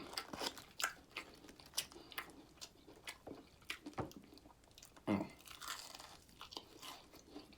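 Close-up mouth sounds of biting into and chewing crispy fried food, with many short crunches throughout. A short voiced sound comes about five seconds in.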